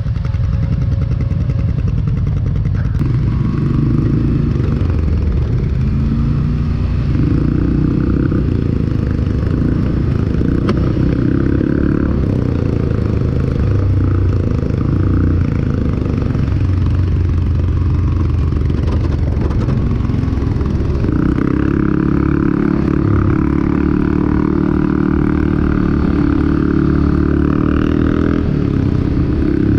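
ATV (four-wheeler) engine running as it is ridden, its revs rising and falling several times.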